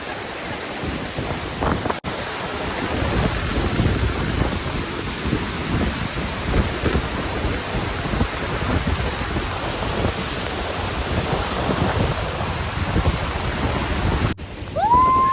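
Hebbe Falls waterfall heard close up: a steady rush of falling water with an uneven low rumble. It cuts off suddenly near the end as music comes in.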